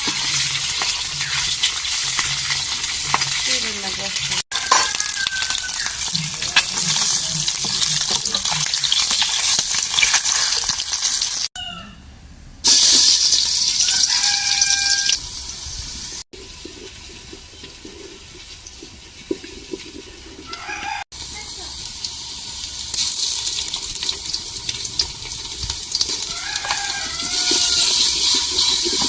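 Farmyard chickens calling, with a rooster crowing, over the steady hiss of food sizzling as it cooks; the sound changes abruptly several times.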